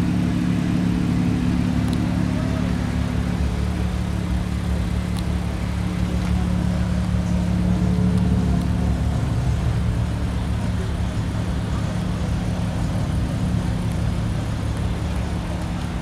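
A car engine idling steadily, a low even hum whose upper tones drop away about four and again about nine seconds in.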